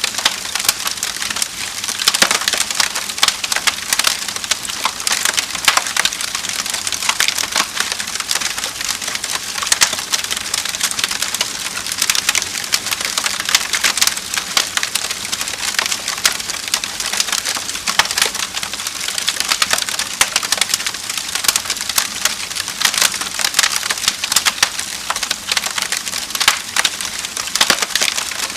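Wood fire crackling steadily, with dense pops and snaps over a soft hiss.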